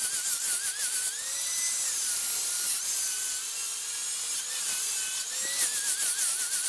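Wood lathe turning a wooden blank while a turning tool cuts into it: a dense scraping hiss from the cut, with a high whine that wavers quickly in pitch at first and again near the end, steadier in between.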